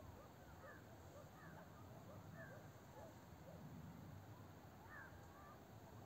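Faint, scattered bird calls: many short chirps sliding up and down in pitch, over a low rumble.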